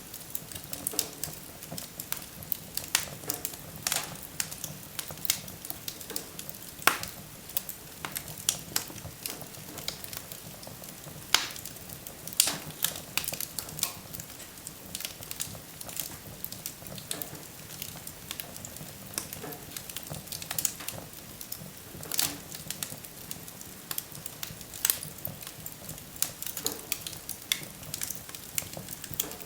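Wood fire burning in a fireplace: a steady soft hiss with frequent irregular crackles and sharper pops of the burning logs.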